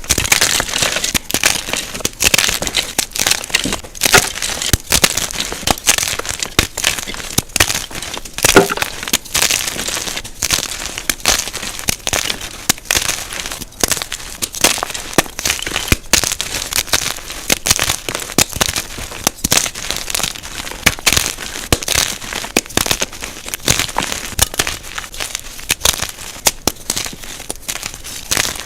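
Jumbo gym chalk blocks being crushed: a dense, continuous crunching and crumbling made up of many quick sharp crackles, sped up to double speed.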